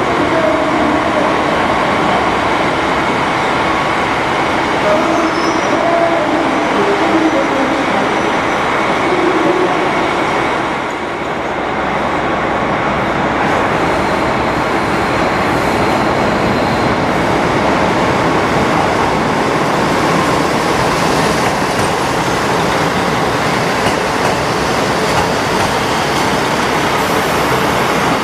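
A train running along a station platform: a loud, steady rumble of wheels on rails and running gear, dipping briefly about eleven seconds in.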